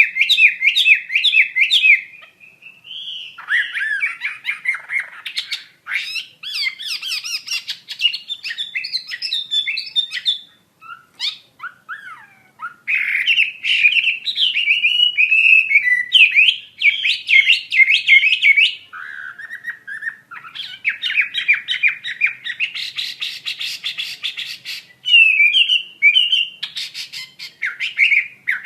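Chinese hwamei in full song: loud runs of rapidly repeated whistled notes and trills, changing phrase every few seconds, with brief pauses between phrases.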